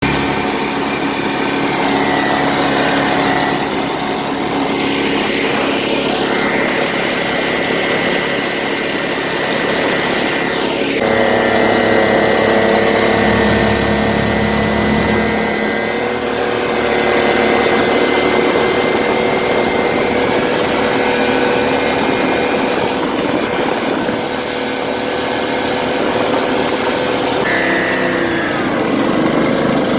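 Swamp buggy's Loncin 30 engine running steadily, its note shifting about a third of the way in and sliding in pitch near the end as the throttle changes.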